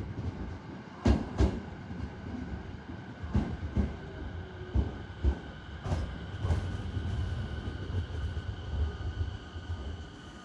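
JR East 209 series 2100-subseries electric train rolling slowly into the station. Its wheels clack over the rail joints in sharp pairs, one pair for each bogie crossing, over a steady low rumble and a faint high whine.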